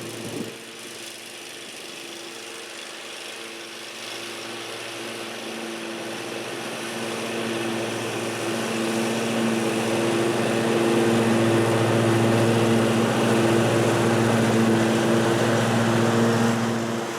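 John Deere D140 lawn tractor engine running steadily while mowing with the rear bagger fitted. It grows louder over the first ten seconds or so, then holds steady.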